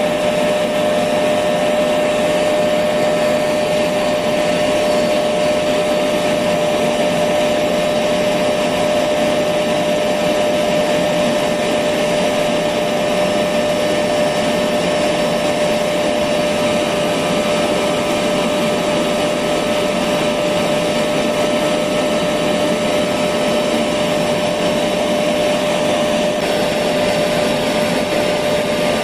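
Electric vacuum cleaner running continuously at constant speed: a steady motor whine with a strong hum over an even rush of air, unchanging throughout.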